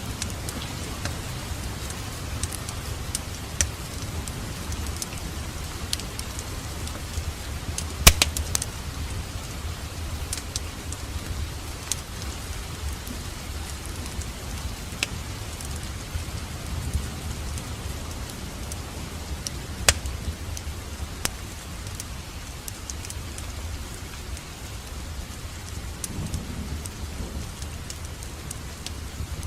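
Wood fire in a fireplace crackling, a steady hiss and low rumble of flames with scattered sharp pops; the loudest is a quick cluster of pops about eight seconds in, with another sharp pop near twenty seconds.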